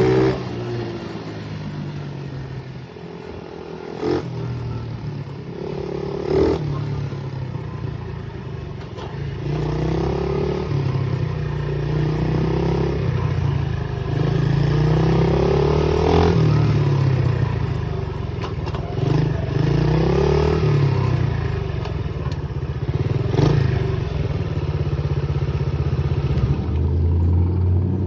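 Pit bike engine running under the rider, revving up and down again and again as it pulls through the throttle, with a few sharp knocks along the way.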